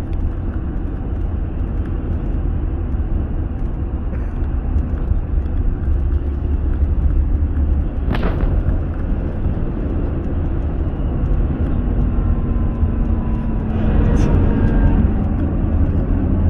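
Car driving on an expressway: a steady low road and engine rumble. A single sharp knock comes about eight seconds in, and faint falling tones from other traffic are heard near the end.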